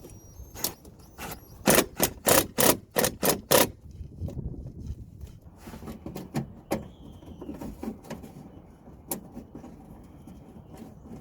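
Run of about seven sharp metallic clicks, roughly three or four a second, then a few scattered lighter clicks and knocks: hand tools at work doing up the fuel filter cover screws.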